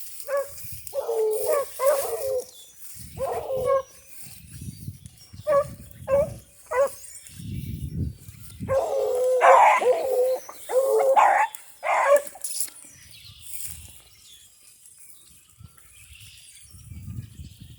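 Rabbit hounds baying in repeated bursts as they run a rabbit's track, the calls stopping about two-thirds of the way through.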